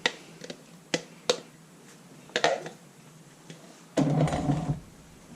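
Kitchen cookware and utensils being handled: a few sharp clicks and knocks, then a louder, denser clatter about four seconds in.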